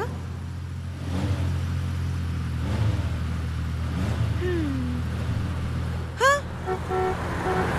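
Steady low car engine drone heard from inside the cabin. About six seconds in there is a short, sharp, high-pitched sweep, followed by a few short tones.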